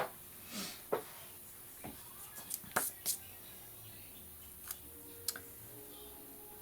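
Light clicks and taps of small craft materials and paper being handled on a work table, about seven sharp ticks spread over the first five seconds, with a soft rustle near the start.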